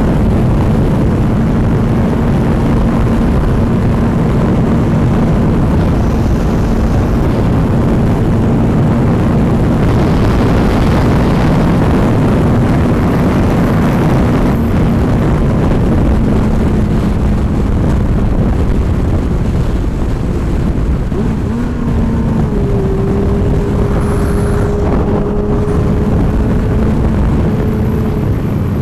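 Motorcycle riding noise: wind rushing over the camera microphone, with the bike's engine humming steadily underneath. A second, higher steady tone joins the hum about three-quarters of the way through.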